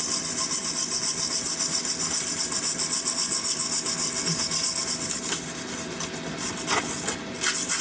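Hand wire brush scrubbing slag off a fresh flux-core weld on steel, in fast back-and-forth strokes, about six a second. It slows to a few separate strokes after about five seconds.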